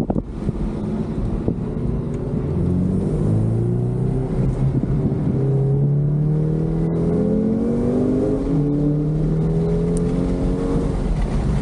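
Car engine accelerating hard through the gears: its pitch climbs in each gear and drops back at each upshift.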